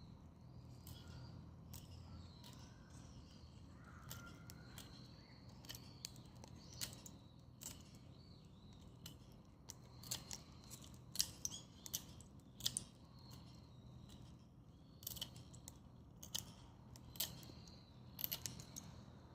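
Dry perilla branches burning in a Solo Stove wood-burning stove: irregular sharp crackles and pops over a faint steady background, coming more often and louder from about ten seconds in.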